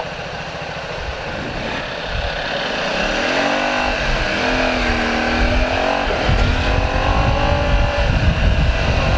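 Motorcycle engine pulling away and accelerating, its pitch rising and falling through the gears, with wind rumble on the microphone growing louder from about six seconds in.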